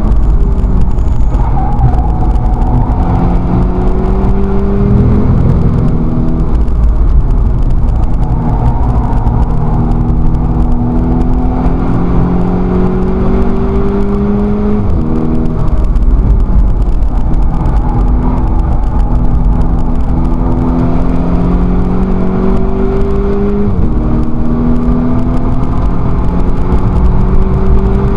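Volkswagen Scirocco race car's engine heard from inside the cabin, pulling hard under full throttle with its pitch rising steadily through long gears. It upshifts three times, about 5, 15 and 24 seconds in, the pitch dropping sharply at each shift. Loud road and tyre noise runs underneath.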